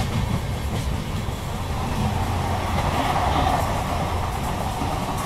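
Moving passenger train running over the rails, heard from the open doorway of a coach, with another train passing close by on the next track. The passing train's noise swells about two seconds in and is loudest around three seconds in.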